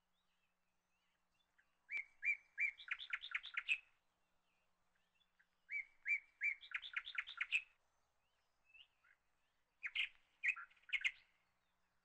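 A songbird singing three short phrases, each starting with a few spaced chirps and speeding into a quick run of high notes.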